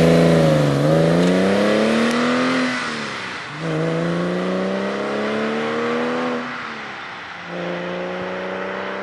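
Porsche 996 Carrera flat-six engine through a Fabspeed Maxflo cat-back exhaust, accelerating hard through the gears. The revs climb, drop at an upshift about three seconds in, climb again, drop at a second upshift about seven seconds in, then hold steady.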